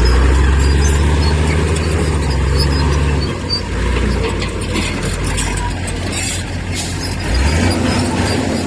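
Diesel engine of heavy earthmoving machinery running, its low note shifting about three seconds in and again near the end, with light metallic rattling over it.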